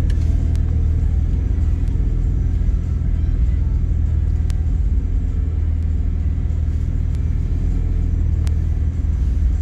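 Car engine idling with a steady deep rumble.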